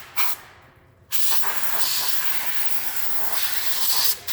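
Compressed air hissing hard from a nozzle for about three seconds, starting about a second in, after a short hiss at the very start.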